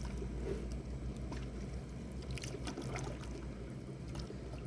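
Canoe paddles dipping and pulling through lake water, with light splashes and drips, over a steady low rumble.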